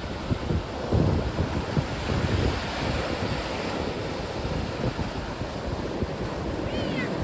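Strong wind buffeting the microphone in gusts over the steady wash of sea waves, with a brief high chirping near the end.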